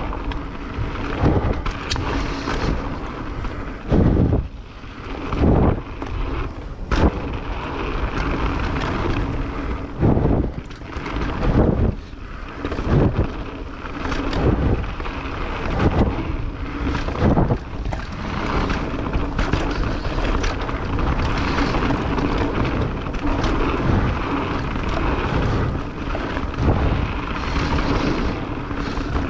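Mountain bike riding down a trail: wind rushing over the microphone and steady rolling noise, broken by many sudden knocks and thuds as the bike goes over bumps.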